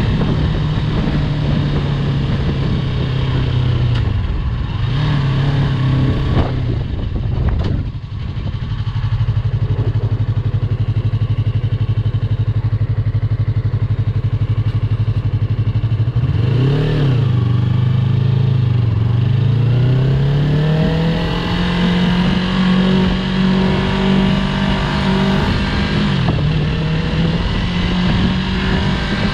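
Yamaha YZF-R3's parallel-twin engine running under a rider, its note holding steady, dropping and picking up again with throttle and gear changes. A quick rise and fall in the middle, and a slow, even climb in pitch through the second half as the bike speeds up.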